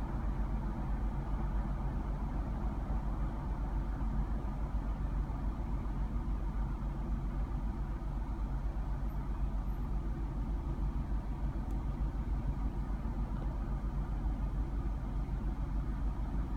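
Vehicle engine idling with a steady low drone that holds even throughout.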